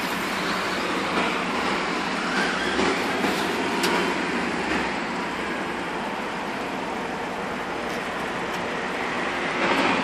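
A parked car's engine idling: a steady, even noise with a couple of faint clicks.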